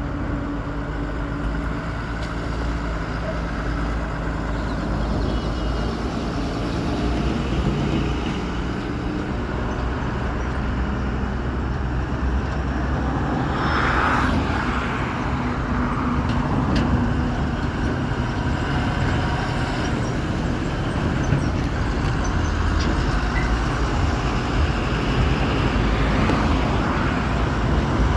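Heavy diesel machinery engine running steadily with a low rumble, and a brief hiss about halfway through.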